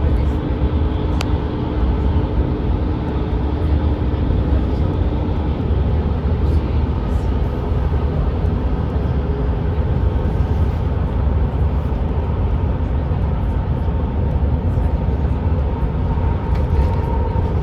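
Steady low rumble of road and engine noise inside a moving vehicle's cabin, with a faint steady hum that stops about five and a half seconds in.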